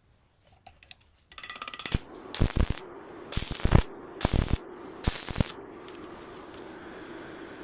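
A quick run of fast mechanical clicks, then four harsh rasping strokes about a second apart, from work on a homemade hand-crank drilling mechanism. A steady low hum follows.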